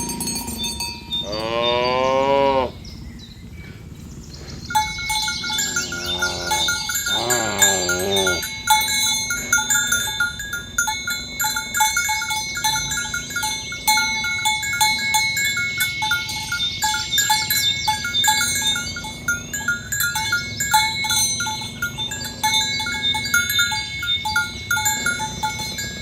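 Cattle mooing, with a few long moos in the first eight seconds. From about five seconds in, bells worn by the walking cattle clank rapidly and unevenly.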